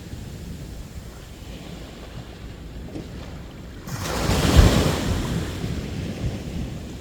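Sea waves washing onto a beach. A low steady wash, then a wave breaks about four seconds in, swells up loudly and fades away.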